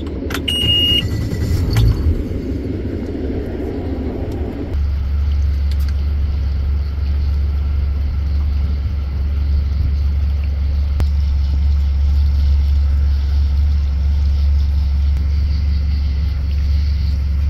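Outboard motor of an 18 ft Tahoe T18 bowrider running as the boat motors across the lake. A short high beep and a few clicks come in the first couple of seconds, and about five seconds in the engine settles into a steady low drone.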